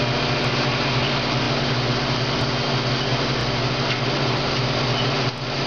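Steady whir and hum of the vacuum turbine that powers a restored World War II flight simulator, running continuously, with a brief dip in level near the end.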